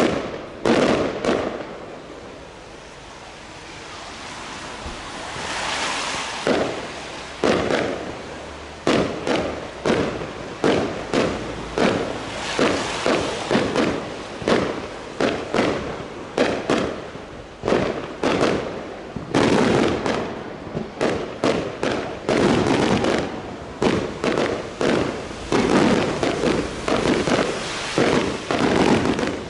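Fireworks display: aerial shells going off in loud bangs, with a brief lull and a swelling hiss about five seconds in. The bangs then come faster and faster, building to a near-continuous barrage in the last ten seconds.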